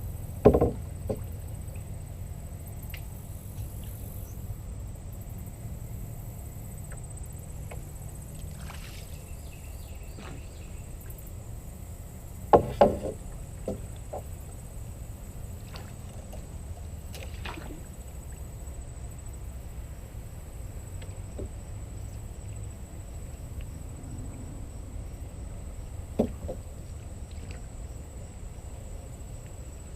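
A small fishing boat on the water: a steady low hum, with three sharp knocks on the boat, one just after the start, one about halfway through and one near the end.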